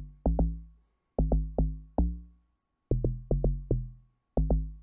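Amapiano log drum played solo: a syncopated pattern of short, punchy pitched bass hits, each struck sharply and dying away quickly. It is dry and raw, not yet mixed or mastered.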